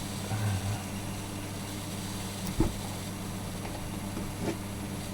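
A few knocks and clicks from handling the electric kettle's plastic switch assembly while taking it apart: a soft thump about half a second in, a sharper knock in the middle (the loudest) and a smaller one near the end, over a steady low hum.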